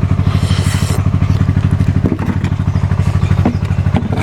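An engine running steadily with a fast, even beat, with a few light knocks over it.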